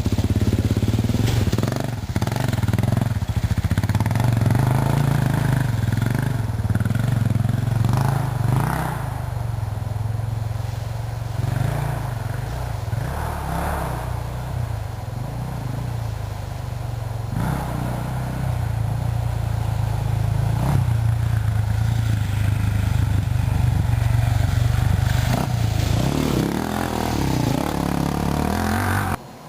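Off-road vehicle engine running under load as it works across the creek crossing, its pitch swelling and easing with the throttle, with knocks and clatter from the vehicle over the rough ground.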